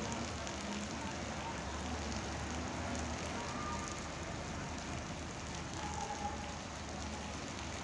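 Heavy rain falling steadily on rooftops and a flooded street, an even hiss that holds at one level throughout.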